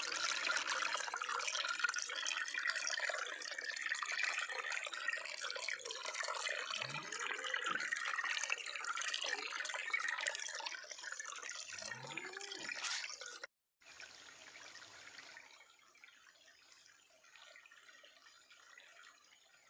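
Running water, a steady rushing and splashing noise that stops abruptly about thirteen seconds in. After a moment's silence it gives way to a much quieter trickle.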